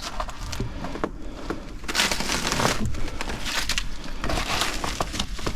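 Scuffing, crunching and scraping of someone clambering through a gap over broken concrete and rubble, with scattered small clicks and a louder stretch of crunching about two seconds in.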